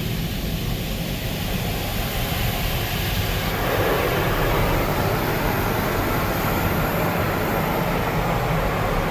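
High-pressure water jets of a WashTec SoftLine 2 tunnel car wash spraying against a car as a steady rushing hiss over a low rumble, growing louder about three and a half seconds in.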